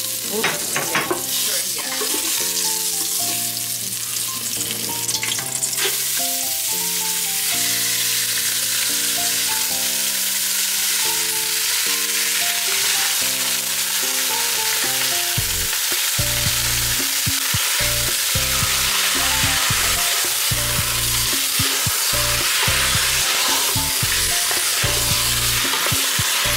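Garlic and ginger sizzling steadily in hot oil in a pot, with raw chicken thigh pieces added and stirred in partway through as the frying carries on. Light background music plays underneath, a bass line joining about halfway.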